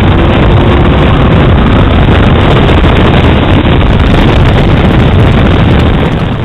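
Mercedes-Benz E500's V8 running hard through an Eisenmann exhaust, loud and steady, mixed with heavy wind noise on the microphone.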